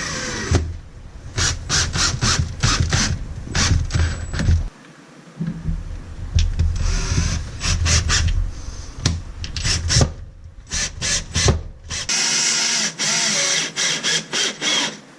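Power tool work with a drill: short bursts and many sharp knocks and clatters of tool and material, then a steady run of the tool for about three seconds near the end.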